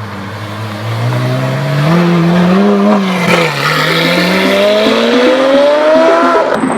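Lamborghini Aventador SVJ's V12 through a Brilliant aftermarket exhaust, accelerating hard with its pitch climbing steadily, then cutting off sharply near the end.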